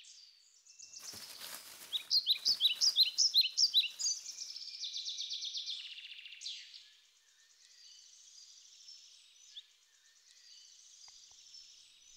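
Songbird chirping: a quick run of repeated high chirps with a brief rustling burst about a second in, then a thin trill, and fainter twittering after about 7 s.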